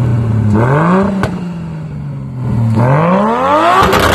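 Nissan Skyline R32's engine idling, then revved twice from behind the car: a short blip about half a second in, then a longer, higher rev near the end with a burst of crackles at its peak as it comes off the throttle.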